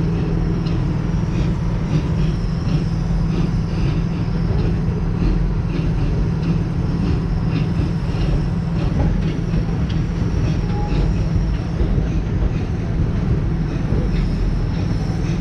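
Amusement-park passenger train running along its track, heard from on board: a steady low rumble with many light clicks from the wheels and cars.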